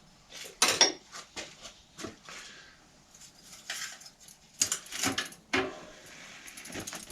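Metal bicycle parts and tools clinking and knocking during work on a bike, in irregular strikes. Near the end a fast, even ticking starts.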